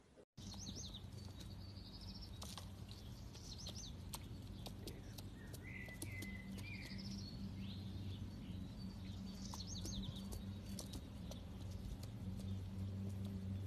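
Small birds chirping in short repeated phrases, over a steady low hum, with scattered faint clicks.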